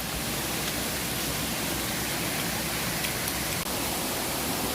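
Steady hiss of heavy storm rain falling.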